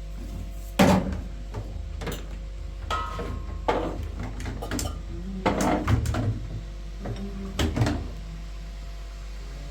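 A handful of separate knocks and clattering thuds, spread a second or two apart, like household objects, doors or cupboards being handled, over a steady low hum.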